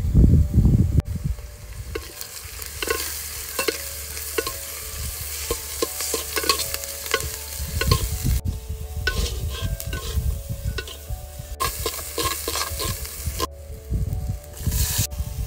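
A steel spoon stirring mango slices and spices frying in oil in a clay pot, with a steady sizzle and many short clinks and scrapes of the spoon against the pot.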